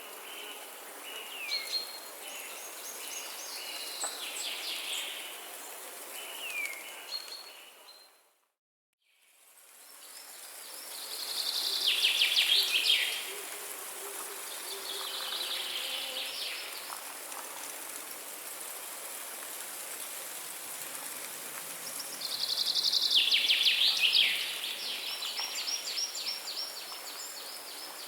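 Several birds singing in a forest, with whistled notes and fast trills, over a steady high hiss. About eight seconds in, the sound fades out to silence for about a second, then fades back in with different birdsong whose loudest trilled phrases come three times.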